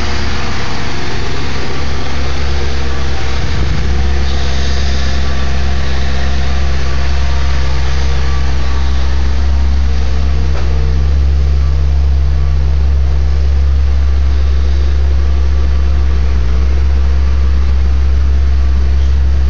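2002 Maserati Spyder's 4.2-litre V8 idling steadily through its factory stock exhaust.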